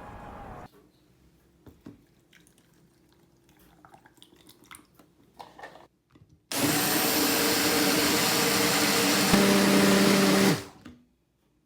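Electric blender running for about four seconds, its motor pitch shifting once near the end before it stops, after a few faint clicks of handling.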